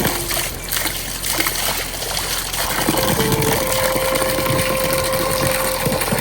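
Heavy rain falling, a dense steady hiss. About halfway through, a long steady mid-pitched tone sounds over it for about three seconds.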